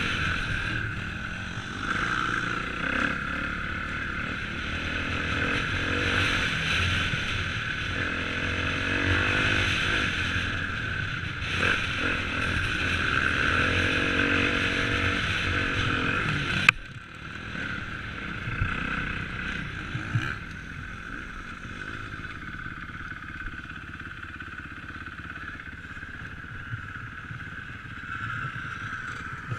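Motocross dirt bike engines revving up and down as the bikes ride. About halfway through, a sharp click comes and the engine sound becomes quieter and steadier.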